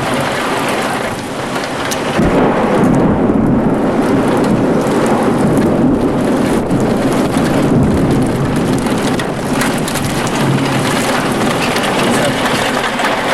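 Violent thunderstorm: heavy rain and strong gusting wind in a steady loud rush, with a deep rumble of thunder that swells about two seconds in and carries on.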